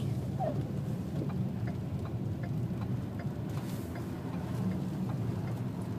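Steady low road and engine rumble inside a Ford Explorer's cabin, driving slowly on a snow-covered highway, with faint light ticks about two to three times a second.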